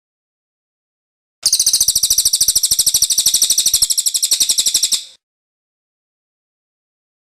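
Cililin bird singing its rolling song ('ngerol'): one fast, high trill of about ten notes a second. It starts about a second and a half in and runs for about three and a half seconds before stopping.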